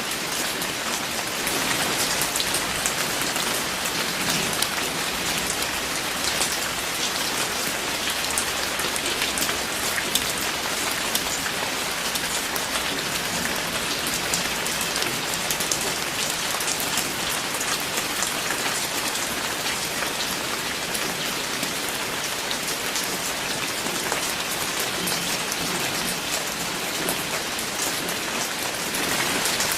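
Steady rain falling on a surface, a dense even hiss with many distinct drop taps.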